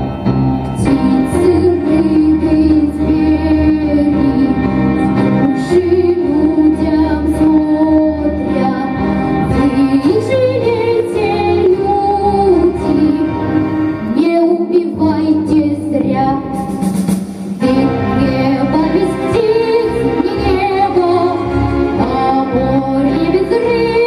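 A young girl singing a slow, tender song with instrumental accompaniment, her voice carrying a continuous melody line.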